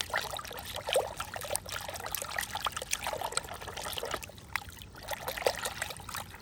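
Water trickling and splashing as a dirty toy car is washed by hand, with many small irregular splatters and drips.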